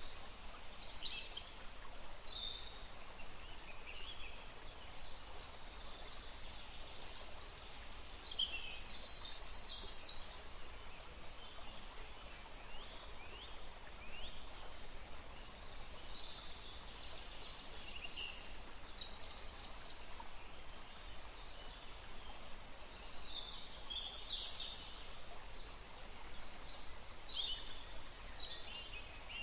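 Several birds chirping and calling throughout in short, quick, sweeping notes, over a steady background rush of the kind made by wind in trees or running water.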